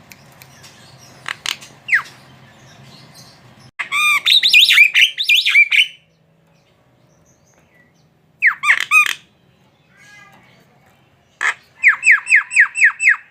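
Javan myna calling in full song: a two-second burst of varied, quickly changing notes about four seconds in, a short call about a second long past eight seconds, and near the end a fast run of repeated notes, about four a second.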